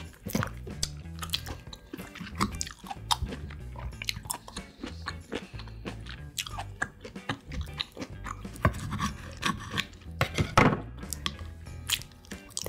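Close-miked chewing of juicy orange segments: wet smacks and crunches in quick irregular clicks, with a louder cluster about ten and a half seconds in, over soft background music.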